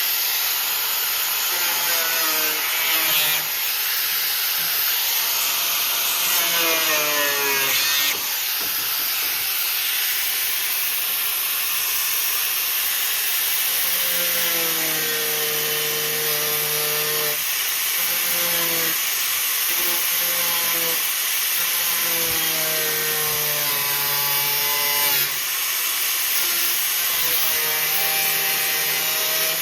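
Angle grinder's cutoff wheel cutting sheet steel: a steady loud hiss as the wheel grinds through, with the motor's hum coming and going and twice dropping in pitch as it bogs under the cut.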